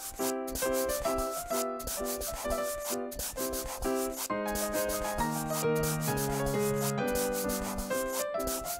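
Coloring marker scribbling on paper in quick, rhythmic back-and-forth strokes, several a second, with a simple children's tune playing under it.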